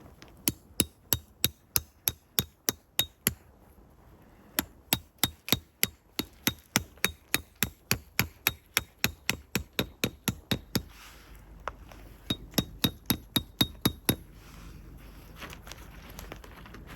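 Repeated sharp blows, about three a second, in three runs broken by short pauses, each blow with a slight metallic ring.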